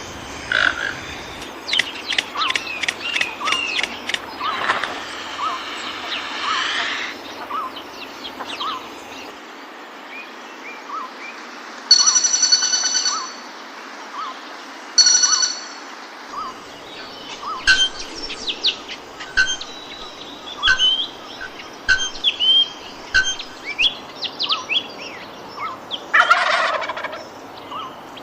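Several wild birds calling at once: a steady series of short repeated notes, assorted chirps and whistled phrases, and two loud harsh calls, each about a second long, near the middle, over a constant hiss of background forest noise.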